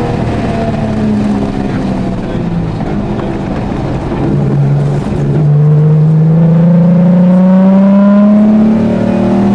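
Rally-prepared Jaguar XJ6's straight-six engine heard from inside the cabin, off the throttle through a tight corner, then accelerating hard out of it about five seconds in. The engine gets louder and its pitch climbs steadily.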